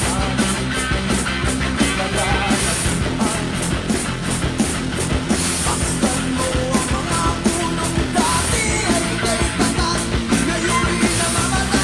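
Rock song with a drum kit played along to it: a steady, driving beat of drums and cymbals over the band's recording.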